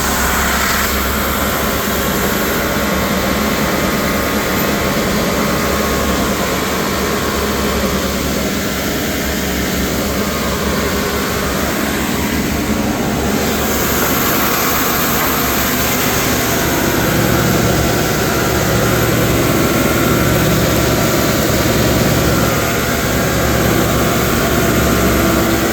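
A machine running steadily: a loud, even rush of noise over a low engine hum. The hum shifts and grows slightly louder about 17 seconds in.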